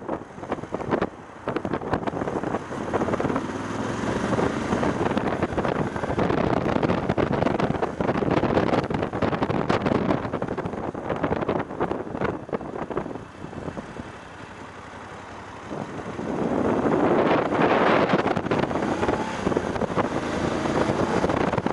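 Wind buffeting the action-camera microphone on a BMW F750GS motorcycle under way, with the bike's running noise underneath. The buffeting eases for a few seconds past the middle, then surges back.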